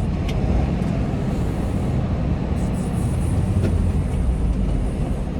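Steady low rumble of a semi truck's engine and road noise heard inside the cab while driving, with a couple of faint ticks.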